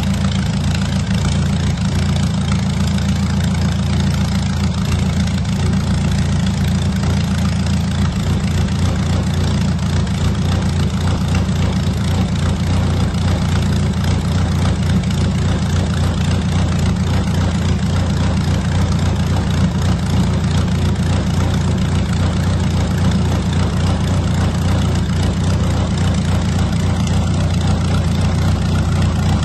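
D-Motor aircraft engine of a Kitfox 2 idling steadily with an even, unchanging low hum.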